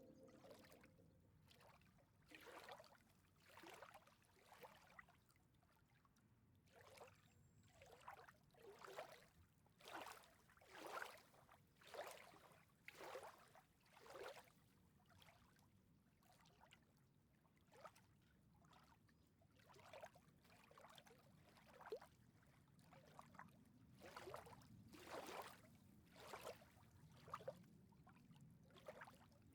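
Faint water sounds: soft laps or splashes coming irregularly about once a second, a little louder in the middle and again near the end.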